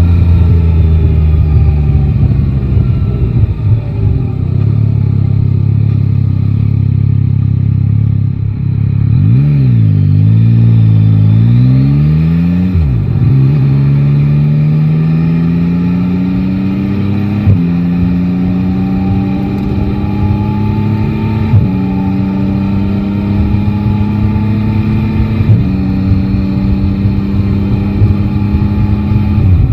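Yamaha Tracer 9 GT's 890 cc inline-three engine, heard from the rider's seat. It runs low and wobbles near idle with a few small blips around ten seconds in, then pulls away. Its pitch climbs steadily and drops back at each upshift, about every four seconds, four times.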